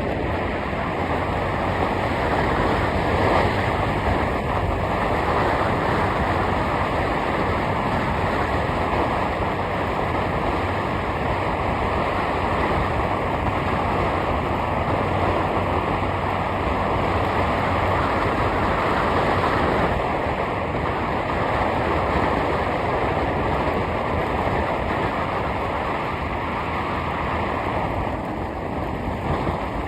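Steady rushing wind and road noise of a moving vehicle, with no clear engine note and slight swells in level.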